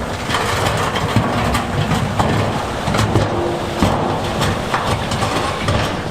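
Heavy earthmoving machinery running under load, with its diesel rumble and frequent knocks and clatters of stone being moved.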